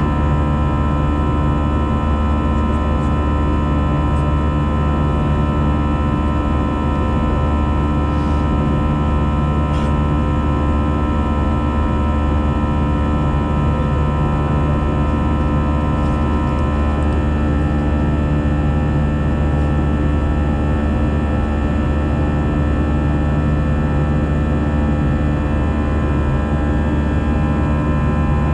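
Steady cabin drone inside an Airbus A320-214 in flight: the CFM56-5B jet engines and airflow make a constant low hum with several steady tones.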